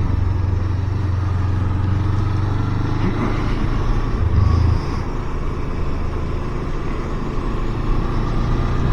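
Motorcycle engine running steadily at low speed, picked up by the rider's own camera, with a low steady drone that drops in level about five seconds in.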